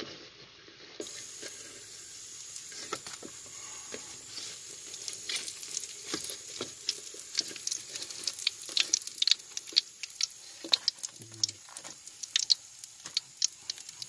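Battered cempedak fritters deep-frying in hot oil in a wok: a steady sizzle with frequent sharp crackling pops.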